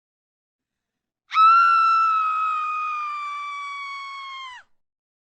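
One long, high-pitched scream starting about a second in. It holds nearly one pitch, sinks slightly and fades over about three seconds, then cuts off.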